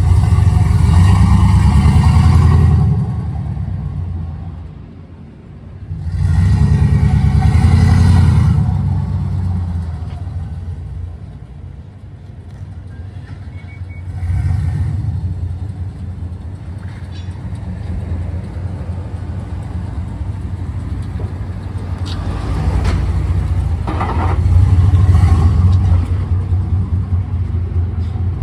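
Truck engine running under way, accelerating hard twice in the first nine seconds with a dip between. It then runs more steadily and swells again near the end.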